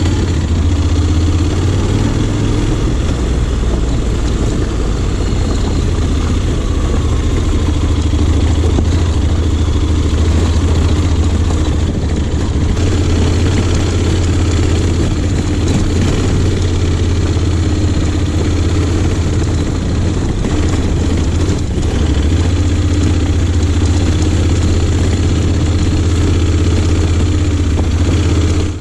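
Honda X-ADV 750's parallel-twin engine running steadily at low, even revs.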